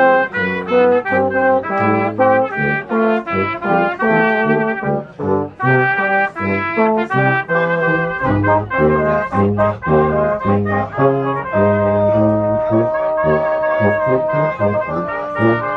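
Brass music playing a tune for a sing-along, a quick run of short notes with one longer held note near the end.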